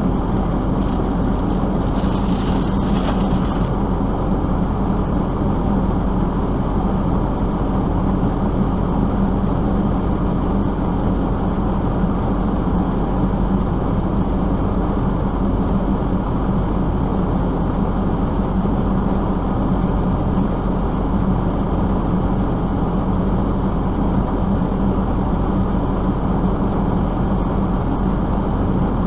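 A motor vehicle running: a steady, unchanging low drone, with a short hiss about two seconds in.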